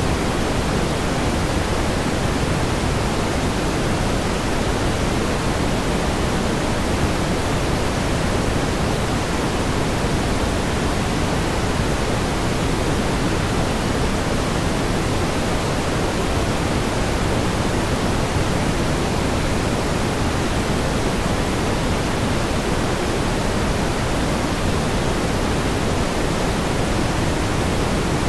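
Steady pink noise: an even, unchanging hiss, fuller in the low end than in the highs.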